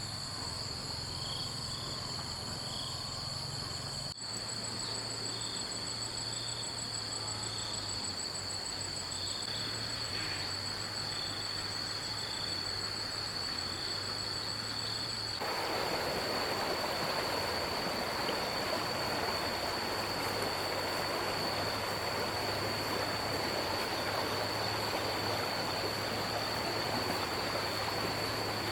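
Flowing water with a steady, high-pitched insect trill and short chirps over it; the rush of water gets suddenly louder about halfway through.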